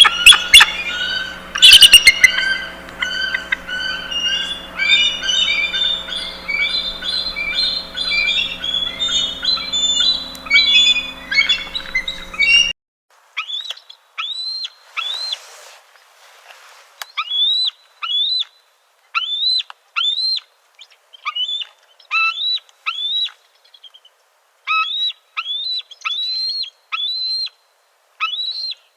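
Birds calling. For about the first half, many chirps overlap over a steady low hum. Then the sound cuts abruptly to a single kind of short, high, upslurred call repeated in quick runs with short gaps between them.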